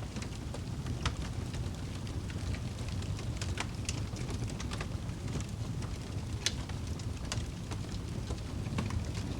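Wood fire burning in a fireplace: a steady low rumble of the flames with scattered sharp crackles and pops, the loudest about six and a half seconds in.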